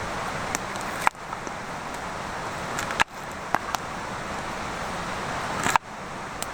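Wood campfire burning with a steady hiss, broken by half a dozen sharp crackling pops.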